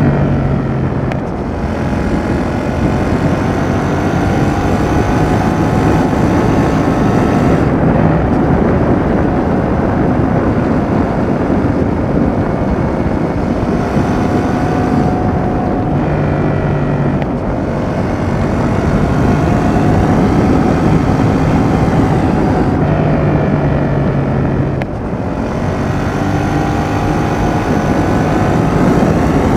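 Yamaha XSR700's 689 cc CP2 parallel-twin engine through a Roadsitalia aftermarket exhaust, ridden hard. The engine note rises and falls with the throttle, with brief drops shortly after the start, about halfway through and near the end, where the rider comes off the throttle or shifts gear.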